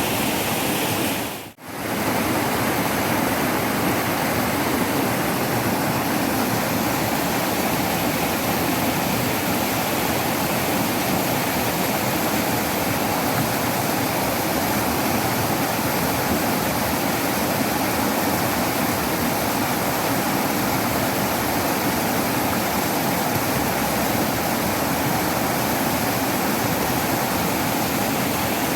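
Waterfall: a steady, dense rush of falling water, with a momentary drop-out about a second and a half in.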